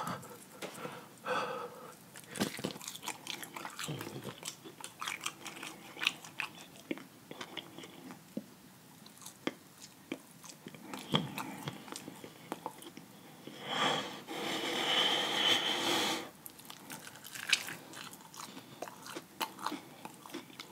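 Close-miked biting and chewing of a fried chicken drumstick, the crisp crust crunching in many short sharp clicks. About two-thirds of the way through there is a louder breathy rush lasting about two seconds.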